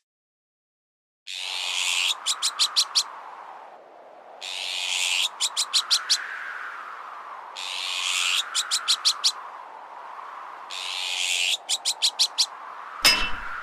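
Azure-winged magpie alarm calls repeated about every three seconds, each a harsh rasp followed by five or six quick chattering notes. A strong wind sound rises and falls underneath. A single metallic clang rings out near the end.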